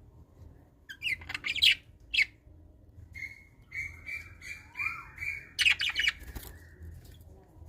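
Birds calling: harsh squawks about a second in and again near six seconds, with a run of short, evenly repeated chirps in between.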